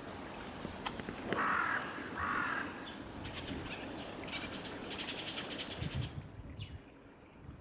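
A crow cawing twice, two harsh calls in quick succession, followed by a run of short, high chirps from a small bird.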